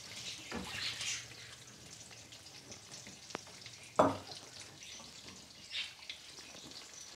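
Ground onion sizzling steadily in hot mustard oil in a nonstick kadai, stirred with a plastic spoon. There is a small click and then a single soft thump about four seconds in.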